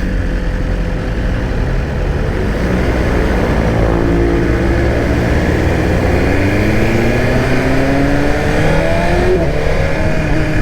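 BMW S1000 RR's inline-four engine pulling under way, its pitch climbing steadily for several seconds and dropping briefly about nine seconds in at a gear change before climbing again, over steady wind and road rush.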